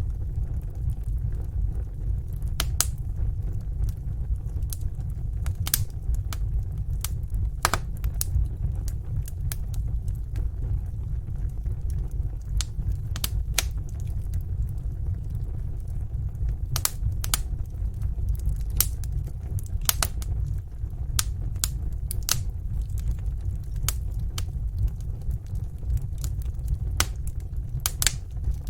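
Wood fire in a fireplace crackling: sharp, irregular pops and snaps over a steady low rumble of the flames.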